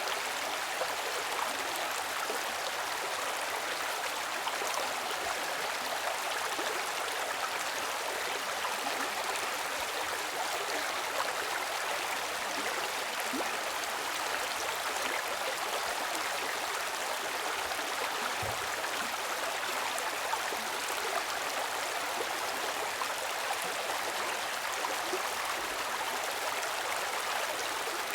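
Steady rushing of a stream, water flowing over rocks with a constant hiss and no pauses.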